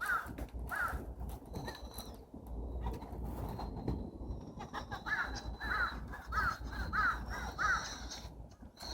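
Crow cawing in quick runs of short calls, about two a second: two at the start, then six more about halfway through. A thin, high whistle comes and goes faintly behind the calls.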